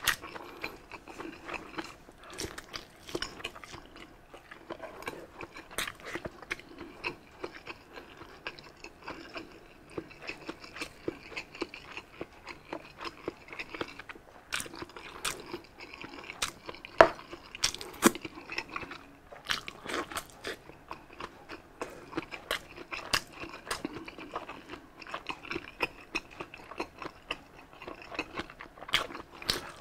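A person chewing and biting into grilled sausage, with irregular sharp clicking and smacking mouth sounds throughout.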